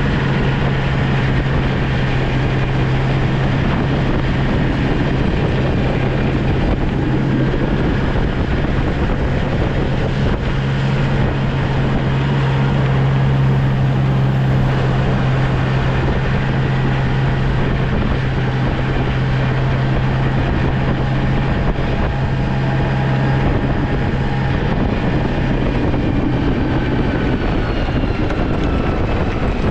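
Snow plow vehicle's engine running steadily with a constant low hum over broad mechanical and road noise. The hum drops out briefly about ten seconds in and fades near the end.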